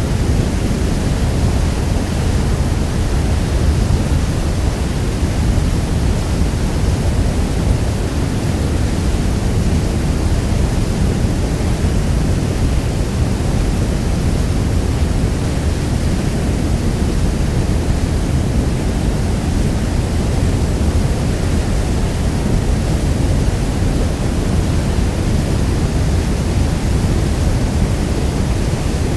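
Niagara Falls' huge waterfall rushing steadily: a deep, unbroken wash of falling water, heaviest in the low end, with no change in level.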